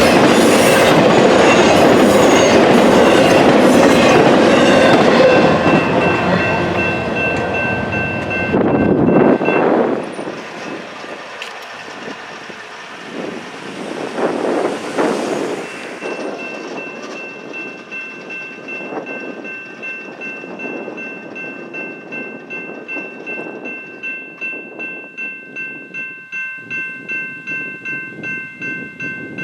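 A train running past close by with loud rail and wheel noise, which drops off suddenly about ten seconds in. High, steady ringing tones sound over it and return after a pause, pulsing in a regular rhythm near the end.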